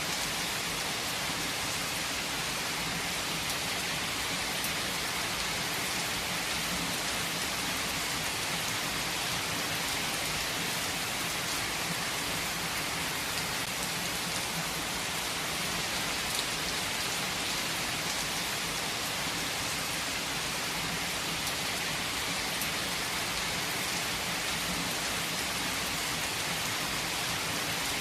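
Heavy rain falling steadily on a surface, an even hiss with scattered faint drop ticks.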